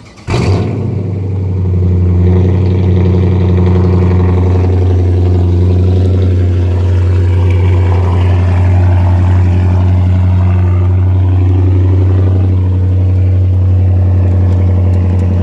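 Chrysler 300S Hemi V8 cold-starting through a straight-pipe exhaust: it catches with a sudden burst about a third of a second in, then settles into a steady, loud idle.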